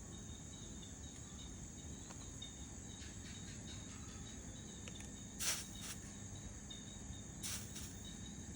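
Steady high-pitched insect chorus, like crickets chirring, with two brief loud rasping noises about five and a half and seven and a half seconds in.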